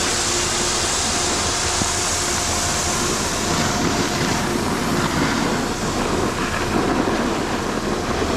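Snowboard sliding and scraping over hard-packed, icy snow: a steady rough rumble.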